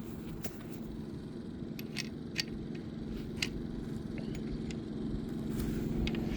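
A steady low mechanical hum with a few light metallic clicks and clinks scattered through it.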